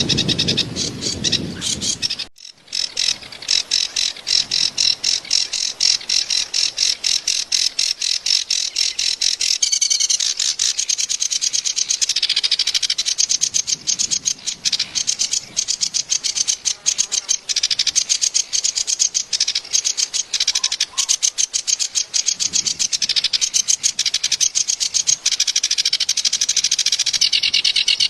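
A kerak basi (reed warbler) singing a fast, harsh, unbroken chattering song of rapid scratchy notes. The song breaks off for a moment about two seconds in, then carries on.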